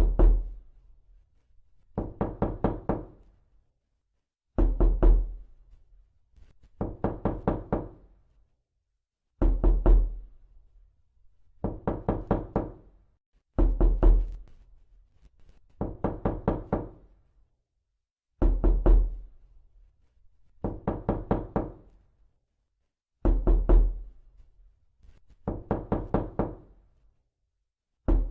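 Repeated knocking in quick bursts of about four to six knocks, one burst roughly every two and a half seconds. Heavier, deeper bursts alternate with lighter ones.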